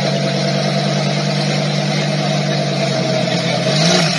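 Supercar engine idling with a steady low hum, its pitch lifting briefly near the end.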